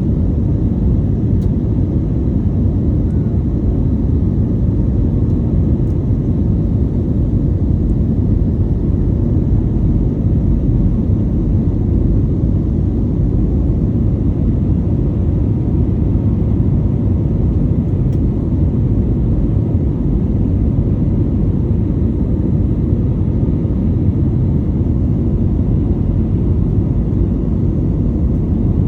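Aircraft engine noise: a steady, loud low rumble that does not change in pitch or loudness.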